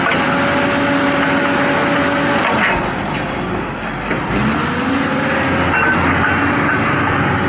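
Caterpillar 320D excavator running under load, its engine note steady with a high hydraulic hiss over it. Around three seconds in the engine pitch sags and the hiss stops, then the engine climbs back up and the hiss returns a little after four seconds.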